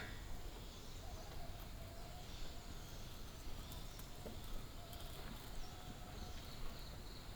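Quiet rural outdoor ambience with faint bird calls and a few soft clicks.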